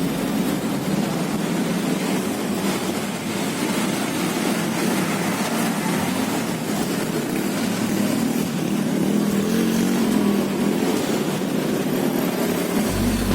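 Steady noise of a motorcycle taxi ride through city traffic: the bike's engine and road rush.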